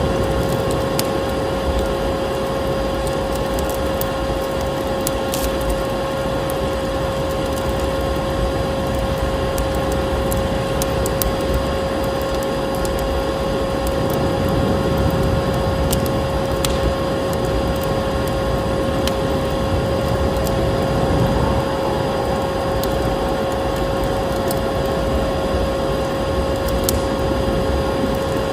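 Vacuum cleaner running steadily with a constant pitched whine over its rushing air noise, layered with a wood fire crackling: scattered sharp pops and snaps.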